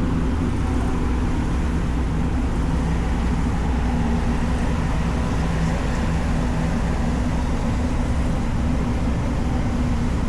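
A car ferry's diesel engines droning steadily, a low even hum with several pitched lines, as the ship comes in to dock.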